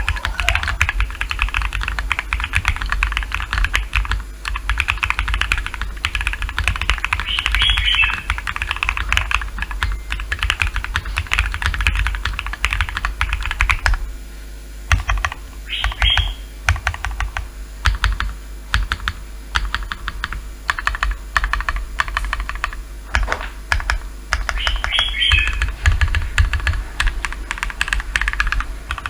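Continuous fast typing on a mechanical keyboard fitted with First Love switches (polycarbonate top housing, POM bottom housing, LY stem, light factory lube), dense key clacks with a brief lull about halfway through.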